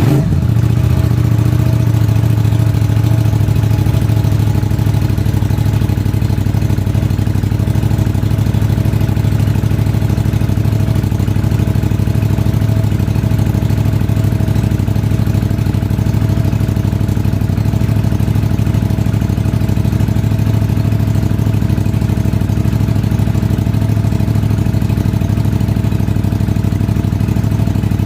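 Aprilia RS660/Tuono 660 parallel-twin engine idling steadily just after a cold start, through an unrestricted race exhaust.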